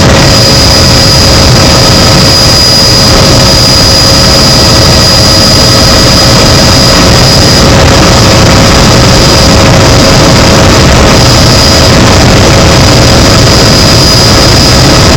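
Helicopter turbine engine and rotor noise heard from inside the cabin: a loud, steady rush with a constant high whine, unchanging throughout.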